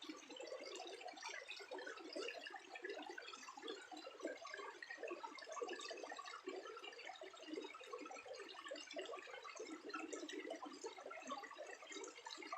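Water running or trickling steadily, a continuous patter of small splashes.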